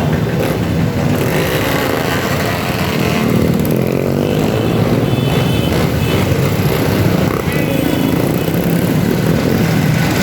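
Motorcycle engines running steadily, their pitch shifting as they idle and are blipped.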